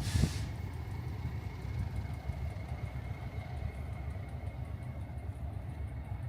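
Steady low rumble of a running vehicle, with a faint constant high whine and a short hiss just at the start.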